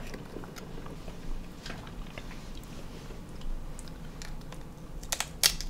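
A person biting and chewing a crisp tortilla chip: faint scattered crunches, then a quick run of louder crunches about five seconds in.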